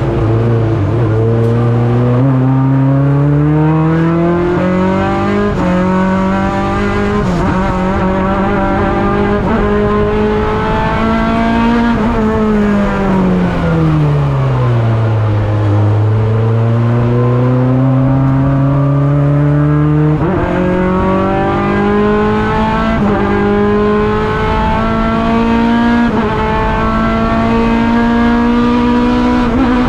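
Honda Integra (RSX) race car's four-cylinder engine, heard from inside the stripped cabin, pulling hard as its pitch climbs, then backing off with the revs falling for a few seconds about twelve seconds in, and climbing again, with a sudden jump in pitch about twenty seconds in.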